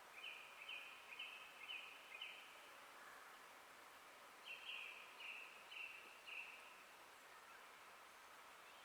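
A songbird singing faintly in a forest, repeating a short note about five times in quick succession, then a second series of four or five notes about halfway through, over a quiet steady background hiss.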